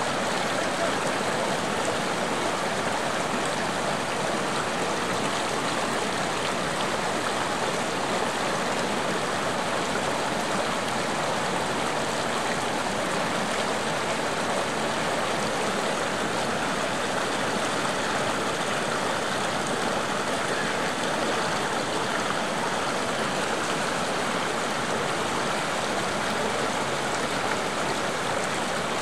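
Stream of running water flowing and splashing steadily, an even rushing sound.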